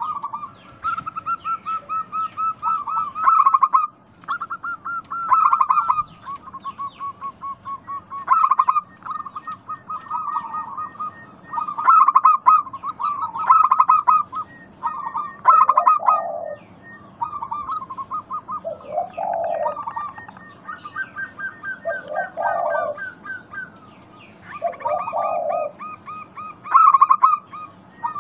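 Zebra doves (perkutut) calling, played as a lure recording to set caged birds singing: long runs of rapid repeated notes, with a lower cooing phrase every few seconds in the second half.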